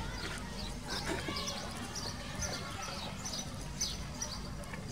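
Birds chirping: short high chirps repeated every half second or so, over a steady low background hum.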